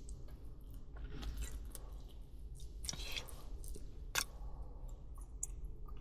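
Someone eating takoyaki: soft chewing and wet mouth noises with scattered small clicks, and one sharper click about four seconds in, over a steady low hum.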